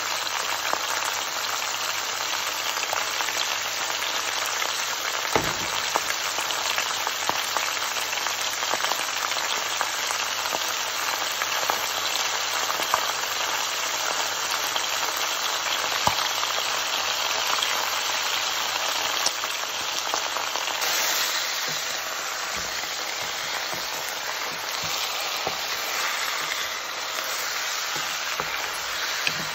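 Chicken pieces and sliced onion frying in a pot: a steady crackling sizzle with a few sharp pops, easing slightly in the last third.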